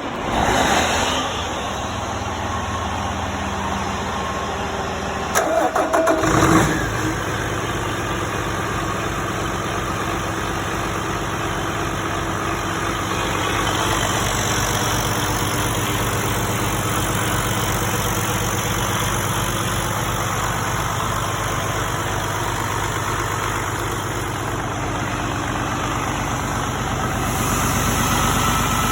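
PACCAR MX13 inline-six diesel engine being cranked by the starter for about six seconds, catching with a loud burst, then idling steadily.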